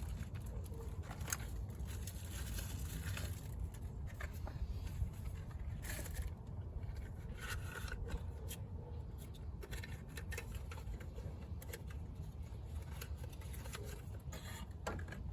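Light scraping and scattered short clicks of tools and parts being handled during a spark plug change, over a steady low rumble.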